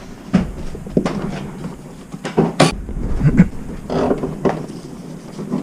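A series of irregular knocks and clicks from hand tools working on a car.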